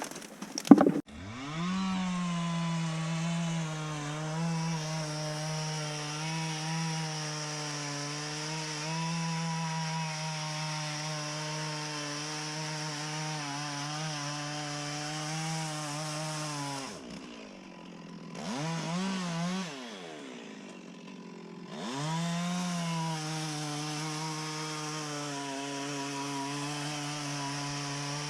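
Two-stroke chainsaw revving up about a second in and running at high speed, cutting into wood. It drops to idle about two-thirds of the way through, revs briefly, then goes back to full throttle for the rest.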